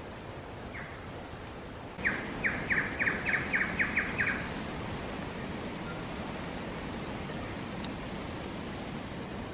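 A bird calling: a quick run of about nine sharp, evenly spaced notes lasting about two seconds, then a thin, high whistle that slowly falls in pitch, over a steady background hiss.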